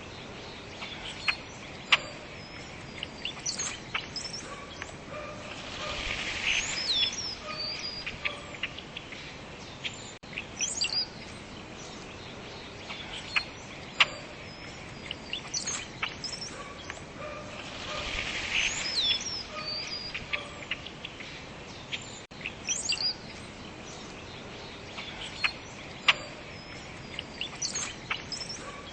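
Several birds chirping and calling over a steady outdoor background hiss, with short sharp chirps and sweeping whistled notes. The same stretch of calls repeats about every twelve seconds.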